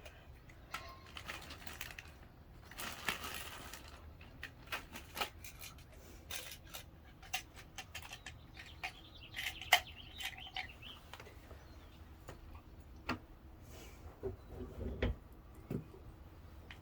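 Irregular small metallic clicks, ticks and short scrapes of a locksmith's tools working in a front door lock.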